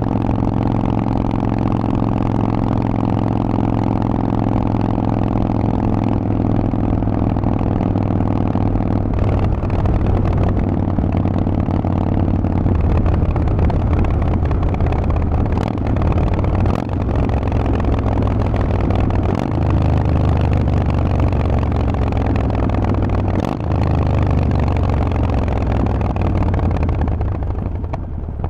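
Harley-Davidson Forty-Eight's air-cooled V-twin running through a Vance & Hines exhaust while riding, pulling steadily with a few brief dips in the sound partway through. Near the end the engine note falls in pitch and gets quieter as the bike slows.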